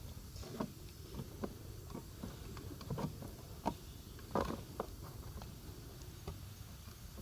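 Wood campfire crackling, with irregular sharp pops and snaps; the loudest snap comes a little past halfway.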